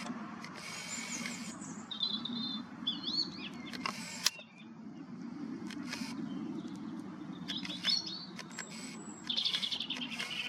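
Small birds chirping in short, quick phrases, with a fast trill near the end, over a steady low background rumble and a few handling clicks.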